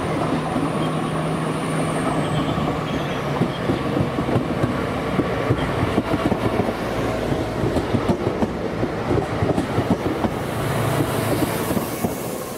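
A train running along the track, its wheels clicking rapidly over rail joints and points under a steady rumble. A thin high whine falls in pitch about two seconds in.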